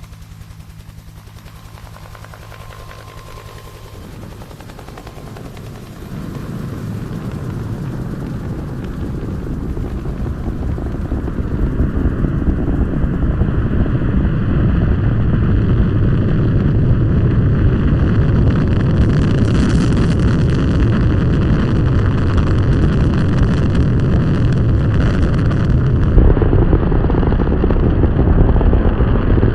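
Rocket launch: a heavy, rough low rumble that comes in about six seconds in, builds for several seconds and then holds loud and steady.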